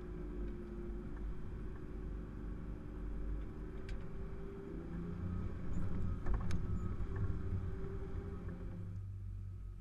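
Off-road vehicle's engine running as it drives a rough, wet track, heard from inside the cab. The low engine note strengthens about halfway through, with a few sharp knocks around the middle.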